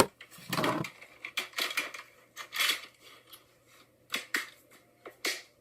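Plastic clicks and rustling from handling a VHS cassette and its case: a few soft rustles, then several sharp clicks in the second half.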